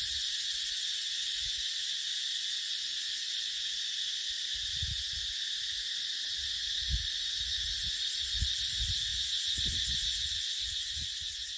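Cicadas droning in a steady, continuous chorus, with gusts of wind buffeting the microphone in low rumbles. The sound fades out near the end.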